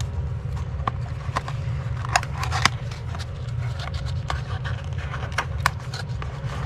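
A small parts package being opened and handled: scattered sharp clicks and crinkles of plastic packaging, over a steady low hum.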